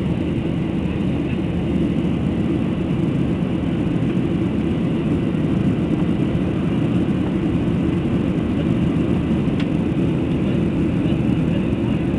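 Steady low drone of an airplane's engines, an even rumble that holds without rising or falling.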